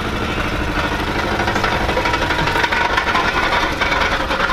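Honda Accord sedan's engine idling steadily.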